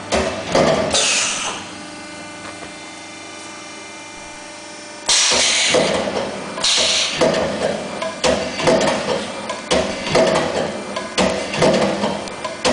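Hydraulic CNC die-cutting press at work. A steady pump hum with a whine runs for a few seconds, broken before and after by hissing bursts and repeated knocks from the moving cutting head's strokes. About five seconds in, a loud clatter starts suddenly.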